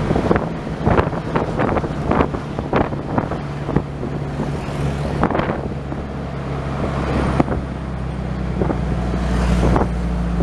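Motor vehicle running steadily on the road, with wind gusting on the microphone and frequent short knocks and bumps.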